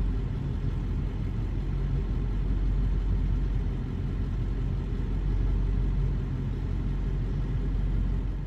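Pickup truck driving, with a steady low rumble of engine and road noise.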